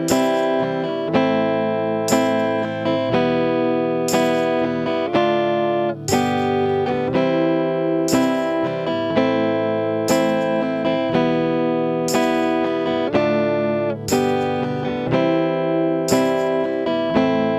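Guitar strumming a song's chord progression in a steady rhythm, with no vocals: a strong stroke about once a second, changing chord every couple of seconds.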